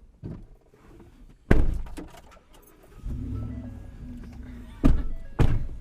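Several heavy thunks: a loud one about a second and a half in and two close together near the end. Music starts about halfway through and carries on under them.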